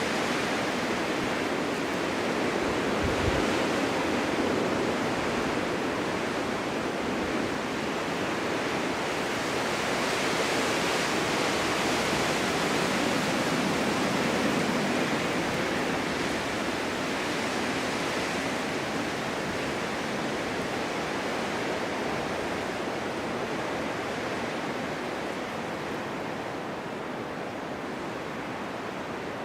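Snowstorm wind blowing steadily, a rushing noise that swells and eases in slow gusts and tapers off a little near the end. A brief low buffet of wind on the microphone about three seconds in.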